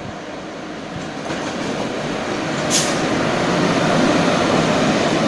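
Locomotive-hauled passenger train running past close by, its rolling noise growing louder as the locomotive and coaches arrive. There is one short, sharp crack about three seconds in.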